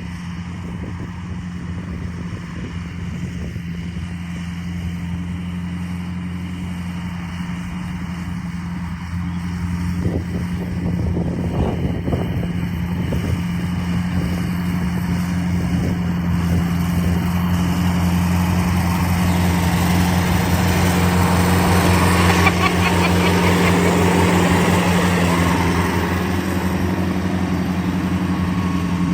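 International Harvester 574 tractor engine running steadily, growing louder over the middle of the stretch and easing off slightly near the end.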